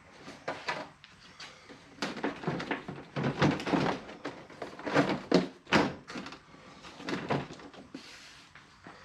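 Repeated knocks, clunks and rattles of metal and glass parts inside a pickup truck's door being pulled and jostled as a stuck part is worked at, busiest in the middle few seconds.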